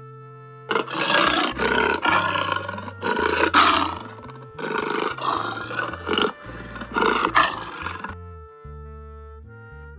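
Cartoon sound effect of an animal roaring: a run of about four loud, rough roars from about a second in until near the end, over light background music.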